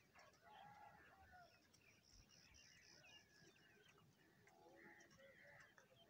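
Faint bird calls and high chirps, with a few light ticks from crows pecking grain off concrete.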